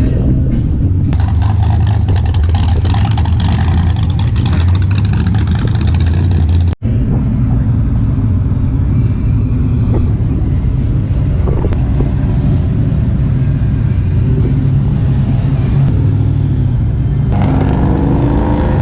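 Car engine and road noise: a steady low rumble, with a rougher, fuller stretch in the first few seconds that breaks off abruptly about seven seconds in.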